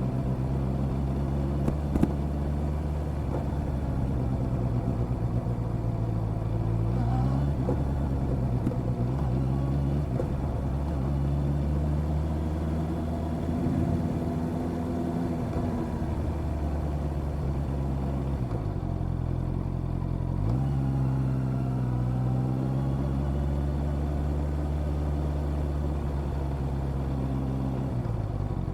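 Honda CB650R's inline-four engine running under way, its note rising and falling with the throttle. About two-thirds of the way through the engine note drops low and then climbs back quickly. There is one sharp click about two seconds in.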